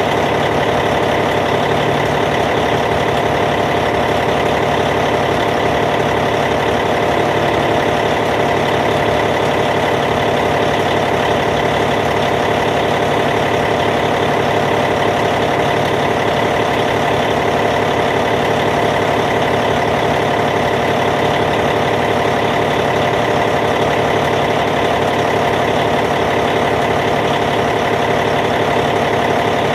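Caterpillar C15 diesel engine in a D8T bulldozer idling steadily, an even, unchanging low-speed run.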